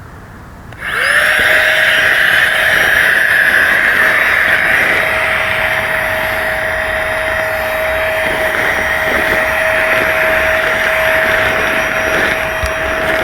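A small electric motor switches on about a second in, its whine rising briefly as it spins up, then runs steadily with a loud rushing of air, like a small blower or air pump.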